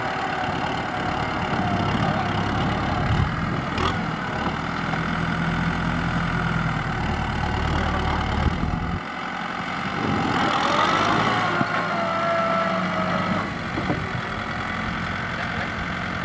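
Kubota M6040SU tractor's four-cylinder diesel engine running steadily under work, its note shifting a couple of times, with a higher whine joining about two thirds of the way through.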